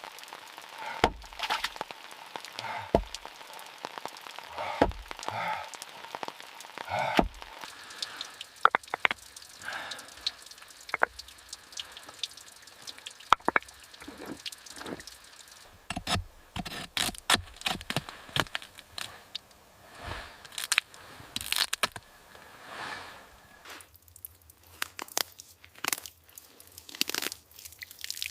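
Sharp knocks and cracks of hand-tool work. For the first several seconds heavy strikes with a low thud land about every two seconds, then a busier run of lighter clicks, cracks and crunches follows.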